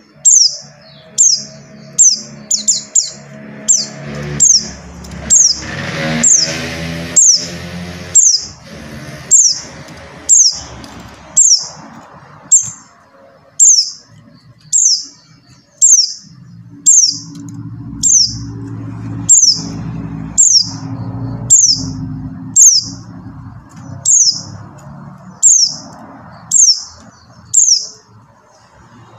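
Oriental white-eye of the buxtoni race (pleci buxtoni) calling: short, high, downslurred notes repeated about once a second. A fainter, lower background sound swells in and out beneath the calls.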